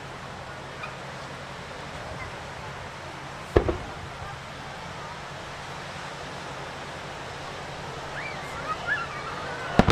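Aerial fireworks: a single sharp boom about a third of the way in as a shell is fired, then a sharp double bang near the end as the shell bursts. Between them there is a steady background of surf and crowd voices, and the voices rise just before the final bang.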